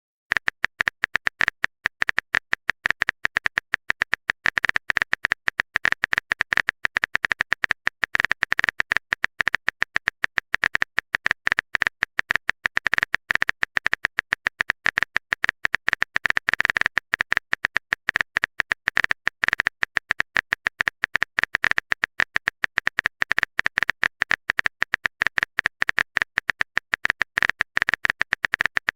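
A rapid, unbroken stream of short sharp clicks, many a second, each with a bright ticking edge: a keyboard-typing sound effect of the kind laid under on-screen text messages.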